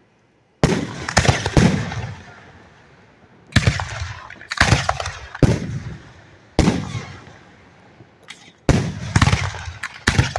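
Aerial firework shells bursting directly overhead: about a dozen sharp booms, some coming in quick clusters of two or three, each trailing off in a long rolling echo.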